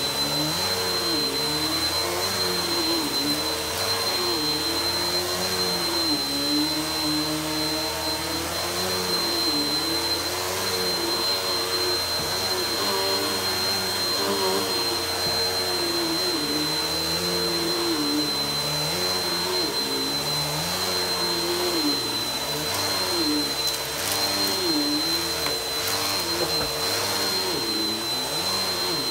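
Vacuum cleaner running continuously over a rug, with a steady high-pitched whine. Its lower hum wavers up and down in pitch.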